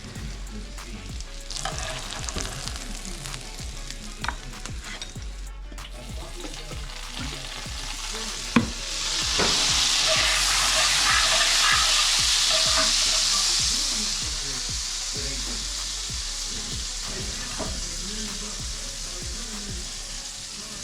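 Food frying and sizzling in a hot pan, with utensil clicks and a sharp knock about eight and a half seconds in. The sizzle then surges much louder for several seconds before easing back.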